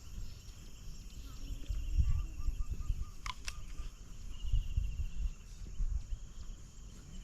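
Outdoor ambience of insects trilling steadily and birds chirping, with a quick falling whistle a little after three seconds in. Bursts of low rumble come about two seconds in and again around four and a half to five seconds.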